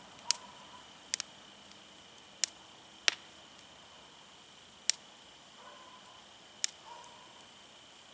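Firewood burning in a small wood fire, popping and crackling with about six sharp pops at uneven intervals.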